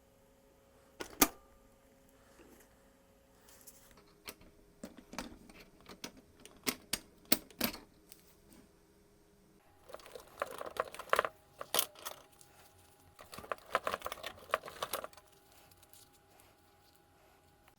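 Hands working on small parts on a workbench: scattered clicks and taps, then two stretches of quick scraping or rubbing about ten and thirteen seconds in.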